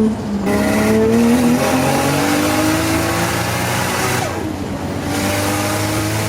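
A performance car's engine revving hard under full acceleration, its pitch climbing, dropping sharply at gear changes about half a second in and about four seconds in, then climbing again.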